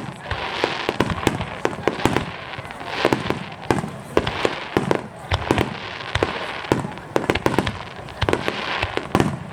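Aerial fireworks going off in quick succession: a string of sharp bangs, several a second, over steady crackling.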